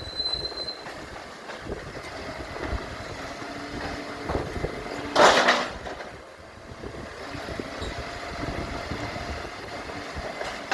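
Garbage truck running, with a short, loud burst of noise about five seconds in that is the loudest sound here.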